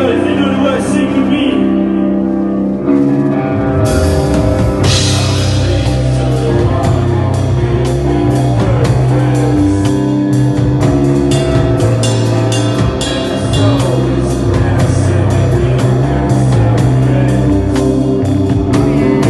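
A live rock band playing loud, raw and unmixed: sustained distorted guitar and bass chords, then the drum kit comes in with cymbal crashes about four seconds in, and the full band plays on with a driving beat.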